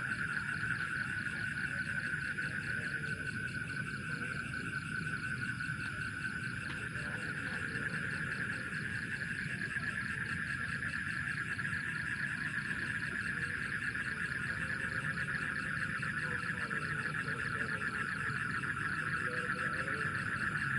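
Steady night chorus of frogs and insects: a dense, continuous pulsing trill that does not let up.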